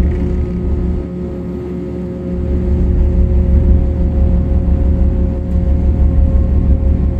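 Ferry Osaka II's engines and machinery running with a loud low rumble and a steady hum while the ship berths. The rumble eases about a second in and builds again a couple of seconds later.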